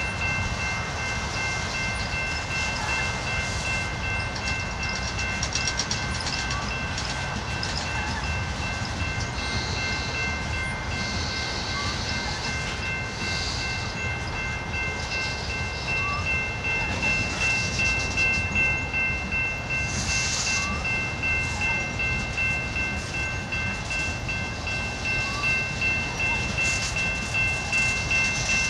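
Freight train of tank cars and boxcars rolling past: a steady rumble and rattle of the cars, with a rhythmic wheel clatter at rail joints from about halfway on. Several steady high-pitched ringing tones sound through it all.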